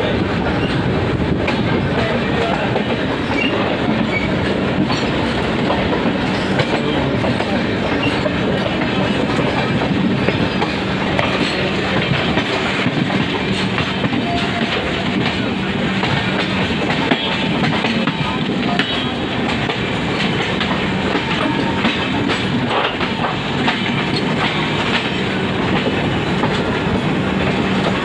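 Indian Railways passenger coaches rolling past close by, their wheels running over the rails with a steady rumble and rapid clicking.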